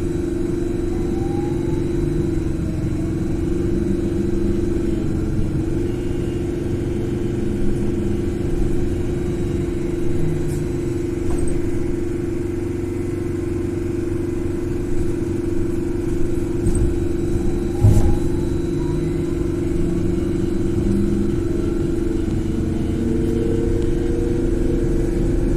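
Trolleybus cabin on the move: a steady electric hum over road rumble, with the traction drive's whine rising twice, near the start and again about 17 seconds in. A single knock about 18 seconds in.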